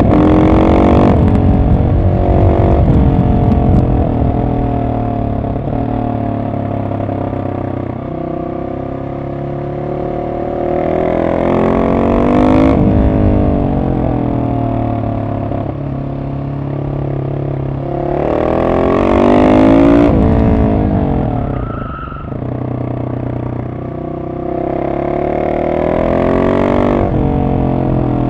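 Husqvarna 701 SM's single-cylinder engine through a decatted Arrow exhaust with the dB killer in, ridden downhill: it revs up sharply twice, about eleven and nineteen seconds in, and drops back in pitch off the throttle in between and near the end.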